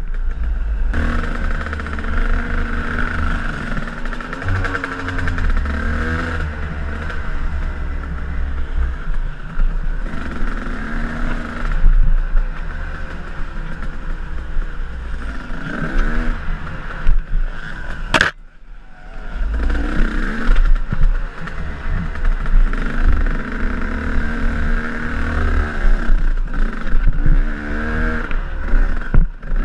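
KTM enduro dirt bike engine being ridden on a trail, its revs rising and falling over and over as the throttle is worked. About 18 seconds in the sound drops away for a moment, then the engine picks up again.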